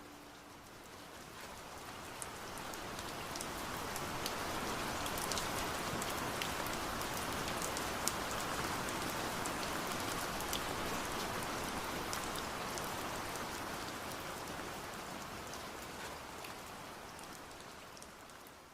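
Steady rain falling, with scattered sharp drop ticks. It fades in over the first few seconds and fades out near the end.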